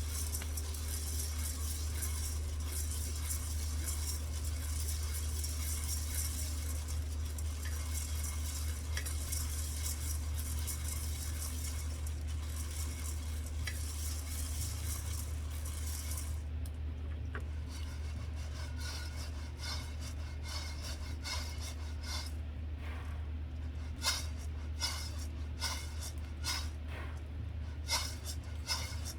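Pork sizzling steadily on a grill pan over a low, constant burner hum. About halfway through the sizzle stops abruptly, and utensils clink and tap against the pan and dishes.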